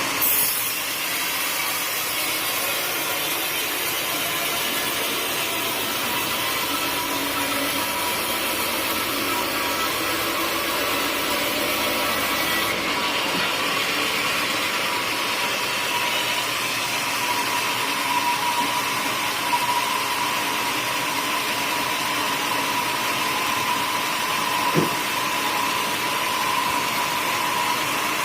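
Sawmill running steadily as its blade cuts through a teak log, a continuous mechanical noise with a steady whine. There is a single sharp knock near the end.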